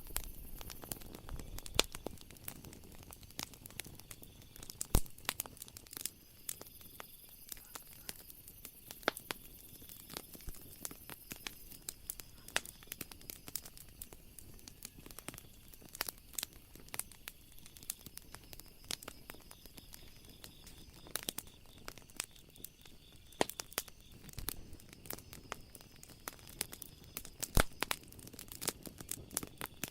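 Wood fire crackling: irregular sharp snaps and pops over a soft hiss, a few of them louder, about five seconds in and again near the end.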